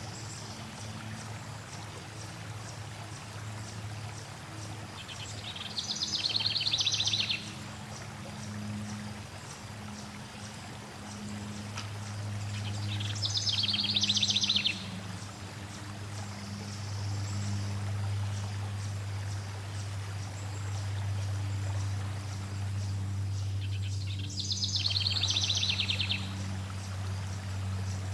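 Flowing water running steadily, with a songbird singing three short, rapid trilled phrases, about five, thirteen and twenty-four seconds in.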